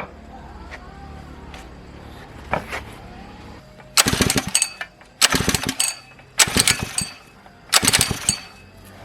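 Small gasoline engine of a water pump being pull-started: four short, loud rattling bursts of the engine turning over, a little over a second apart, without it catching.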